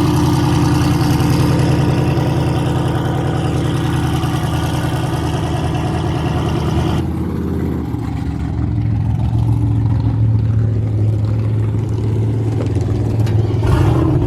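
Turbocharged LS V8 truck engine idling while it warms up. About seven seconds in, the sound turns duller and a steady low hum comes in alongside the idle.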